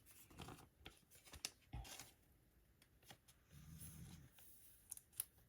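Near silence with a few faint clicks and taps of trading cards being handled and set down.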